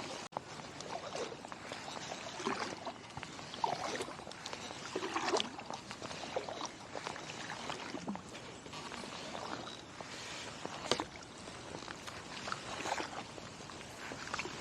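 Kayak paddle strokes in river water: a splash and swish of the blade about every second and a half.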